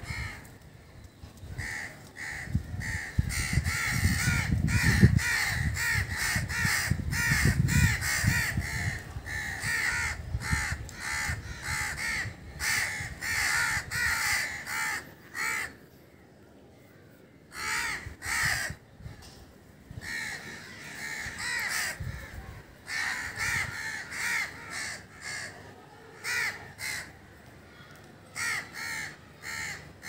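Birds calling: many short, harsh calls in quick succession, with a break of a couple of seconds near the middle. A low rumble runs under the first third.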